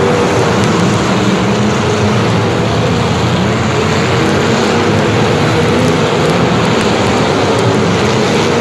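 An engine running steadily at an even pitch under a loud, even rushing noise.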